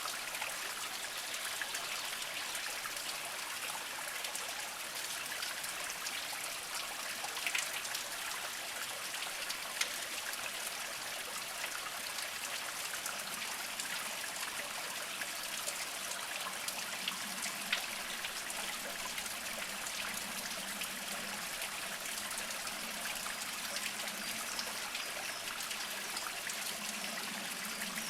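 Small mountain spring trickling slowly over mossy rocks: a steady light splash of running water, with a few sharper drips standing out now and then.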